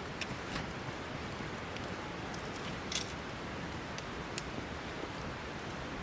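Wood campfire crackling: a few sharp pops and snaps, the clearest about three seconds in, over a steady rushing hiss.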